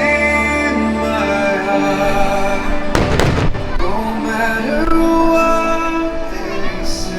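Fireworks show soundtrack of sustained orchestral music with a cluster of firework bursts and crackle about three seconds in.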